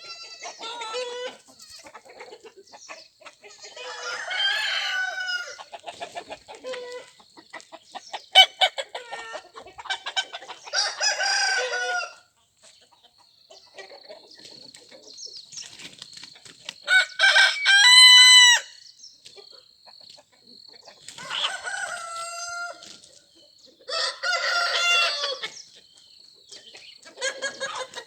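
Desi chickens: roosters crowing several times, one after another, each crow lasting a second or so, with hens clucking between the crows.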